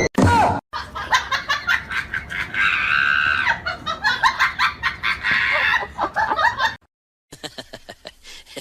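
A rapid run of short, pitched animal calls that lasts about six seconds and stops abruptly. After a moment of silence come fainter clicks and chirps.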